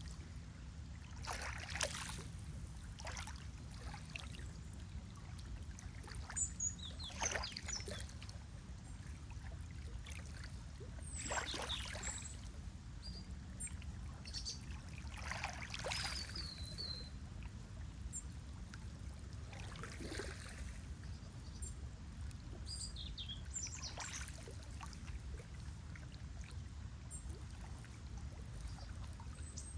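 Lake water lapping and splashing in soft swells every few seconds over a steady low rumble. Small birds give short, high chirps now and then.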